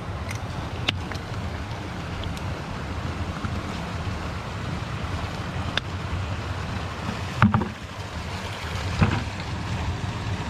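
Steady rush of flowing water, with a few sharp knocks scattered through it; the loudest, a thump, comes about seven and a half seconds in.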